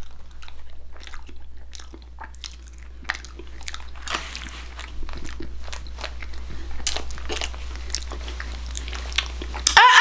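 Close-up chewing of a mouthful of chicken pot pie, with crackles of flaky pastry crust and wet mouth sounds. Right at the end, a loud, high vocal sound slides down in pitch.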